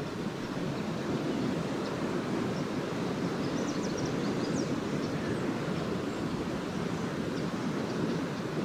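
Small lake waves washing steadily onto a beach, an even surf wash. Faint high twittering from swallows comes in short chirps a few seconds in.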